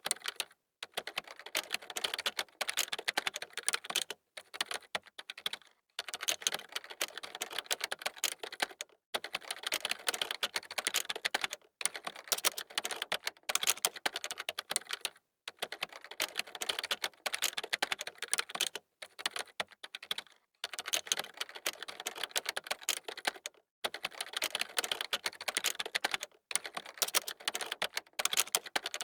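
Computer keyboard typing: fast runs of key clicks broken every few seconds by brief pauses.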